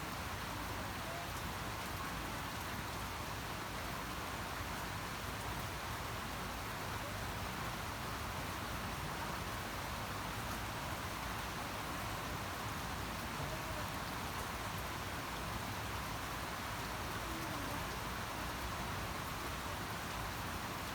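Steady rain falling, an even hiss of raindrops with no change in level.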